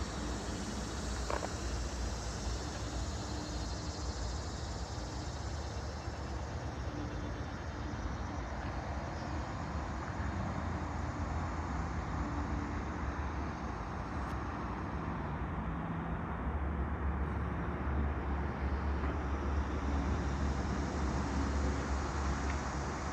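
Steady low rumble of idling engines, with a few faint steady tones. The low rumble grows a little stronger over the last several seconds.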